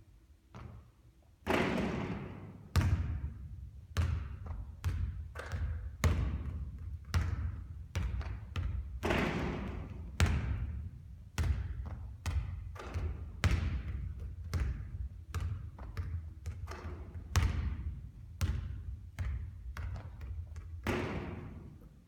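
A basketball bouncing on a hard court in an irregular string of echoing thuds, about one or two a second.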